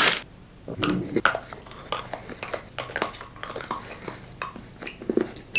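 Close-miked chocolate eating: scattered small clicks and taps, like cutlery or a utensil against a dish, with a few brief soft mouth sounds.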